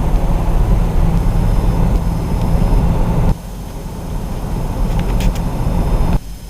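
Steady road and wind noise from inside a moving car at highway speed, heaviest in the low end. It drops abruptly in level about three seconds in and again just before the end.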